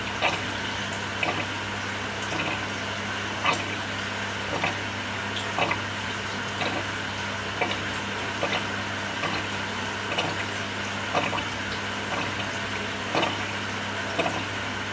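Samsung 6.5 kg top-loading washing machine running mid-cycle: a steady motor hum under water swishing, with a short louder surge about once a second.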